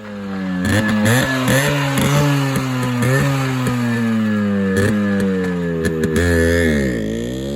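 Yamaha RX135's two-stroke single-cylinder engine revving. The revs jump up about a second in, then fall away slowly with a few brief blips, and dip and pick up again near the end.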